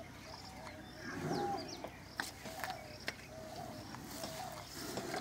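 Birds calling outdoors: one repeats a short low note about twice a second while others chirp higher, with a few sharp clicks.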